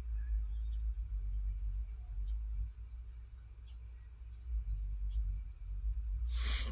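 Steady high-pitched chirring of crickets over a low rumble, with a short rustle near the end.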